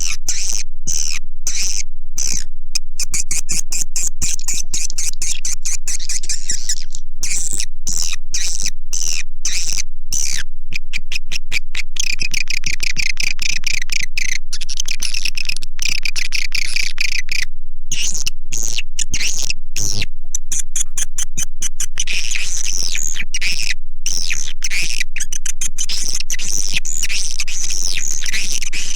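Swiftlet lure call: dense, rapid, high-pitched chirping and twittering of edible-nest swiftlets, repeating in quick bouts with brief gaps. It is the kind of recording played from a swiftlet house to draw the birds in to roost and nest.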